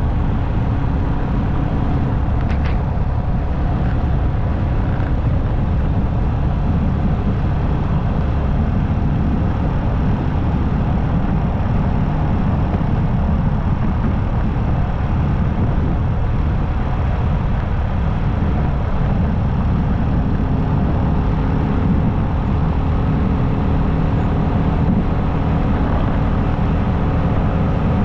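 Motorcycle riding at steady road speed: engine running evenly under a constant low rush of wind and road noise.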